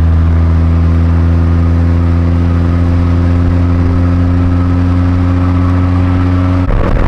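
Car engine running at a steady, constant speed with an even tone, then dropping off abruptly near the end.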